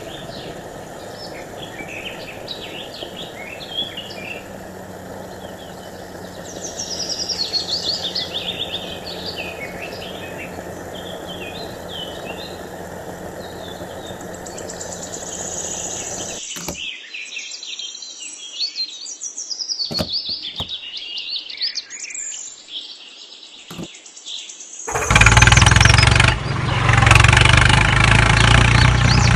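Birds chirping and twittering throughout, over a steady mechanical hum that cuts off about halfway through. For the last four seconds a much louder, dense sound with a heavy low rumble comes in.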